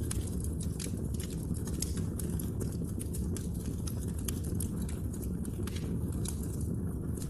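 Wood fire burning in a fireplace: a steady low rumble of the flames with many quick, irregular crackles and pops.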